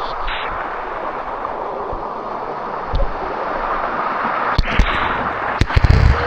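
Water running steadily over a shallow limestone waterfall cascade, with a few low thumps and knocks, most of them near the end.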